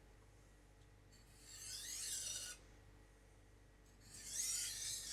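Steel knife edge drawn across a coarse 400-grit Naniwa Professional whetstone with only the knife's own weight: two light scraping strokes, about two and a half seconds apart, the second near the end. These are light finishing strokes on the coarse stone.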